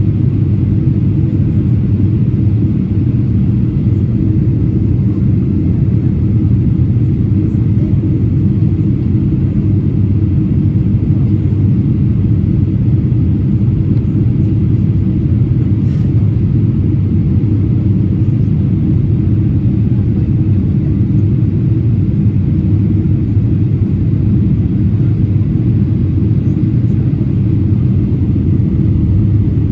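Steady low rumble of a Boeing 777-300ER in flight, the engine and airflow noise heard from inside the cabin, with a faint click about halfway through.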